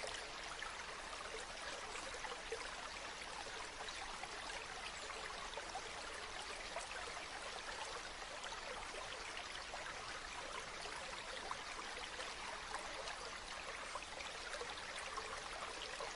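River water flowing, a steady rushing babble with many small splashes and trickles.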